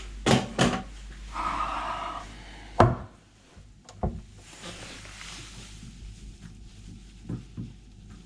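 Sharp knocks and clicks of plumbing fittings being handled while a sink's waste and trap are taken apart, with a short rasping noise about a second and a half in. The loudest knock comes near three seconds.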